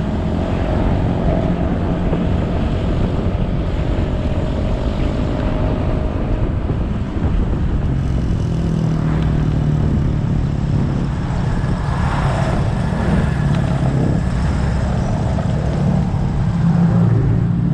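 Motorcycle engine running under way with heavy wind and road noise, its note shifting with the throttle and growing a little louder near the end.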